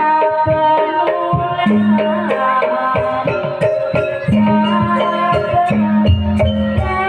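Javanese gamelan music: ringing metallophone tones over regular kendang hand-drum strokes.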